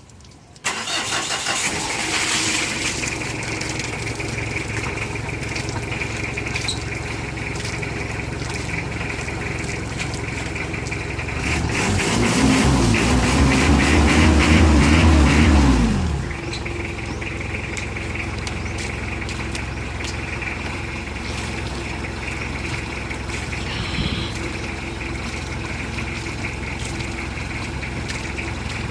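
Mitsubishi Adventure engine starting up and settling into an idle. About halfway through it is revved once for a few seconds, then drops back to idle.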